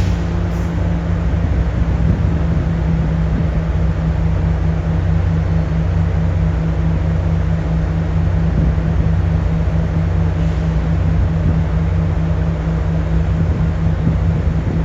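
A train locomotive idling in the station: a steady low hum with several layered tones under an even rumble.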